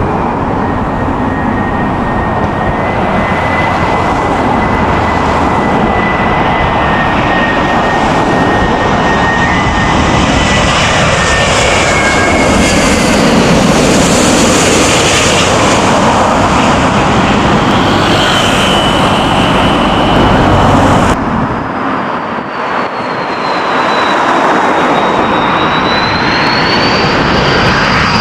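Jet airliner engines roaring as an arriving plane passes low on final approach, with high whining tones over the roar. About three quarters of the way through, the low rumble drops away abruptly and a high engine whine that wavers in pitch carries on.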